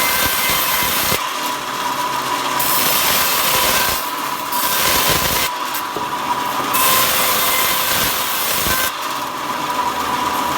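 Power saw cutting wood into thin slats, its motor running with a steady whine while the cutting noise rises and falls over several passes.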